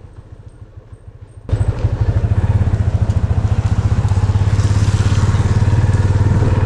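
Motorcycle engine running. It is quiet for the first second and a half, then turns abruptly loud with a fast, even pulsing that holds steady.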